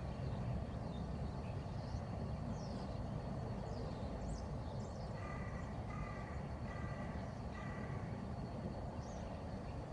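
Steady low outdoor rumble with small birds chirping now and then, and a bird calling four times in a row, about one call a second, midway through.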